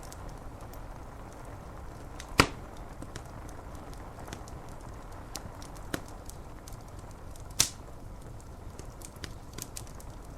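Wood fire crackling, with scattered small clicks and two loud pops about five seconds apart, over a steady wash of rain on window glass.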